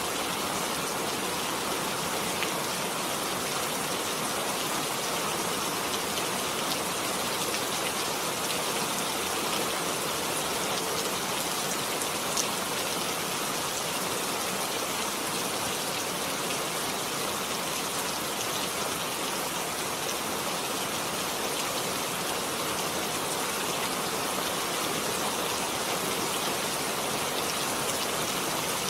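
Heavy rain falling steadily, a dense even hiss with fine drop ticks.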